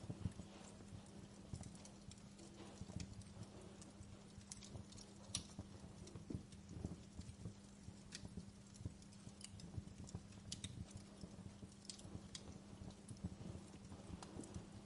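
Wood fire crackling, with irregular sharp pops and snaps over a soft low rumble and a steady low hum underneath.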